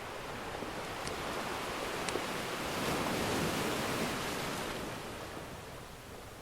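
Ocean surf: one wave washes in, building to a peak partway through and then ebbing away. Two faint pops from a crackling wood fire come about one and two seconds in.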